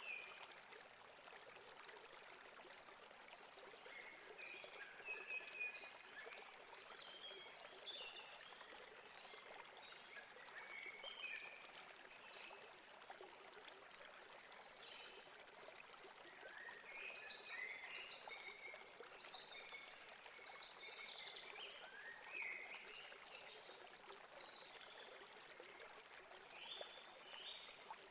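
Faint, steady rush of flowing river water, with short high bird chirps scattered throughout.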